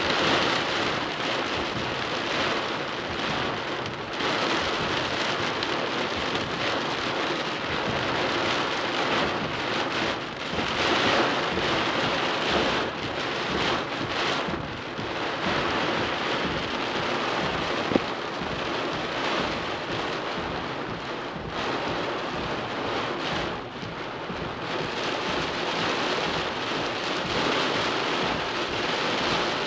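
Rain falling steadily during a thunderstorm, with one sharp click about two-thirds of the way through.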